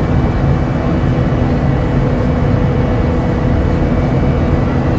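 Steady drone of a jet airliner, an even rushing noise heaviest in the low range with a few faint steady tones on top.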